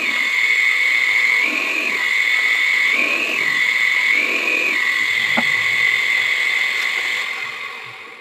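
Small electric drill running with a steady high whine while drilling holes in a bird-cage crown; the pitch jumps up briefly several times, and the drill winds down near the end.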